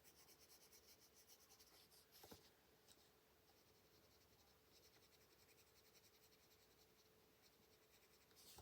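Near silence, with faint colored-pencil strokes on paper in the first couple of seconds, then only a faint steady hum.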